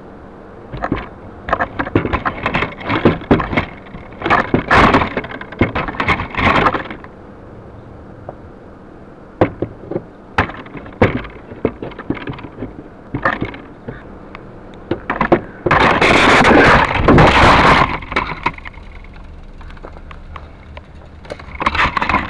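Clusters of sharp knocks and crackling clatter, with a long loud scraping, rustling burst about sixteen to eighteen seconds in, over a faint steady hum.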